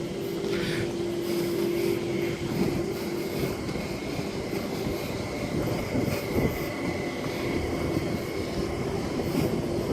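Electric H-set intercity train standing at the platform, its onboard equipment running with a steady hum and a faint high whine over a low rumble.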